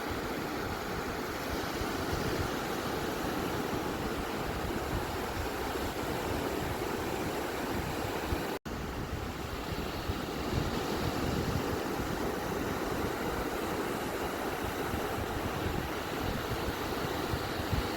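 Beach waves: a steady, even rush of surf noise, cut by a split-second dropout a little before the middle.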